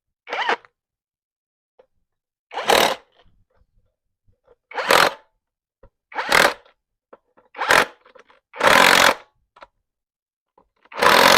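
A handheld power tool run in short trigger bursts, about seven times at irregular intervals, each burst under a second.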